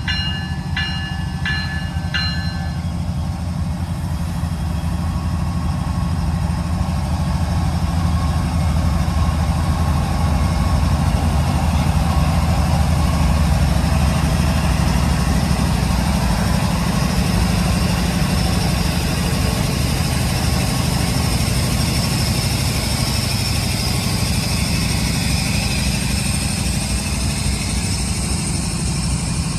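Diesel-powered train running with a steady low engine rumble that swells somewhat about ten seconds in. A short run of evenly spaced bell-like dings in the first two seconds.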